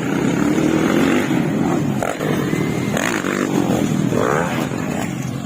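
Motocross dirt bike engines running, their pitch rising and falling as they rev.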